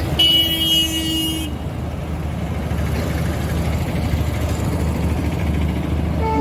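Steady low rumble of a passenger train crossing a girder bridge. A horn sounds one steady note for about a second near the start, and a second short toot comes just before the end.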